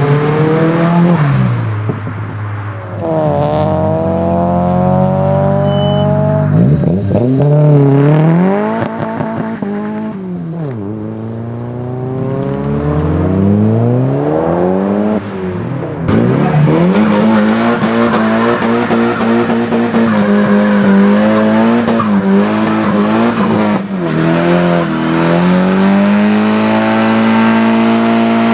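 Modified Nissan Silvia's engine revving up and down repeatedly, then held at high revs from about halfway through, with tyre squeal as the car drifts.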